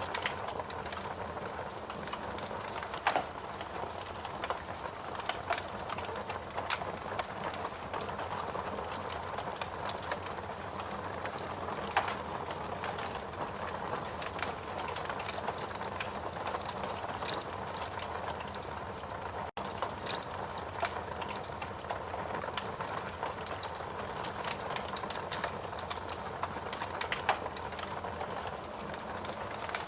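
Wood log fire in a fireplace crackling steadily, a constant hiss dotted with many small pops and a few louder snaps.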